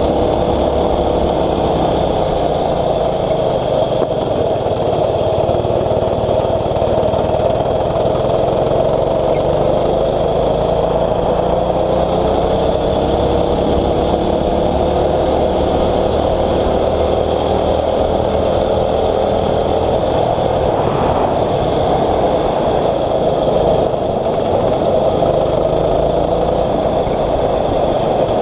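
6.5 HP single-cylinder four-stroke kart engine running under load, its pitch rising and falling as the throttle opens and closes through the corners.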